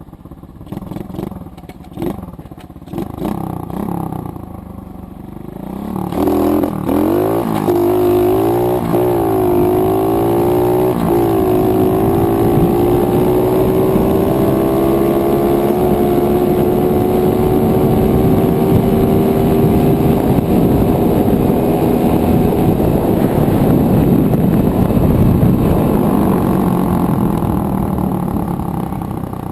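110cc dirt bike engine revving up after a few uneven blips in the first seconds, then accelerating hard through about three quick gear changes, its pitch climbing and dropping with each. After that it pulls in a long, slowly rising note toward top speed, and falls away near the end as the throttle is released.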